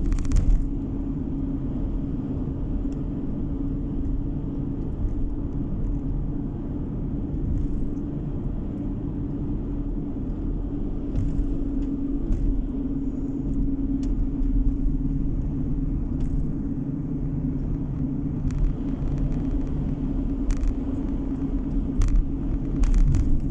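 Steady car road noise heard from inside the car: a low engine and tyre rumble with a constant drone. A few brief knocks come just after the start and again near the end.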